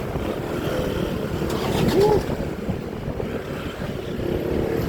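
Motorbike running while carrying a pillion passenger through traffic, with low rumbling wind noise on the microphone. About two seconds in there is a brief tone that rises and falls, the loudest moment.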